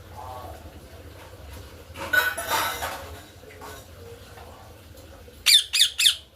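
Parrot calling: a harsh, scratchy squawk lasting about a second, about two seconds in, then three quick shrill screeches near the end, the loudest sounds.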